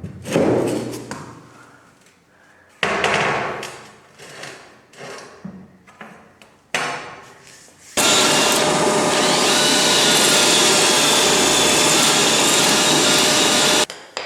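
A few sharp knocks and clattering of hard pieces being handled and set down, then a power tool running steadily for about six seconds, starting and cutting off abruptly.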